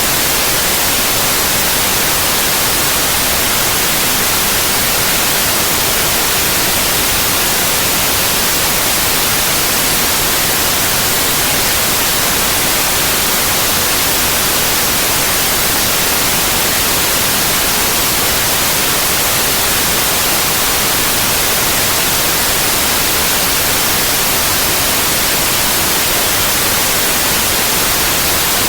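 Steady white noise: an even, unchanging hiss, strongest in the high frequencies, with no interruptions.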